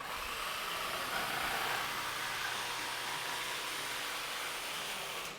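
A steady whirring of an electric power tool's motor for about five seconds, which stops abruptly.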